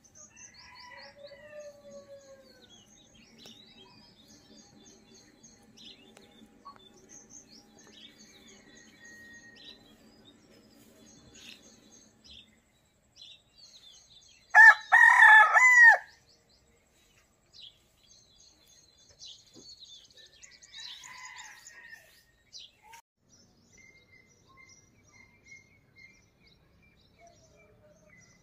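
Small birds chirping and twittering throughout, with a rooster crowing once, loudly, about halfway through.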